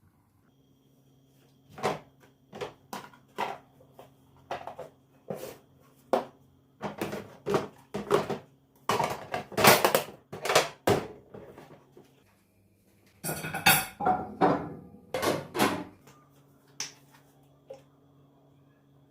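Kitchen dishes and utensils being handled: a run of separate knocks and clinks, some in quick clusters, the busiest stretch a little past the middle. A low steady hum runs underneath.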